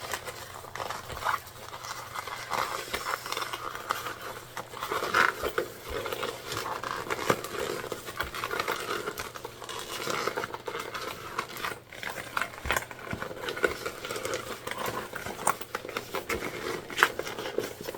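A stiff jelly vinyl bag being pushed and worked right side out by hand: irregular rubbing and crinkling of the thick vinyl, with scattered sharp clicks.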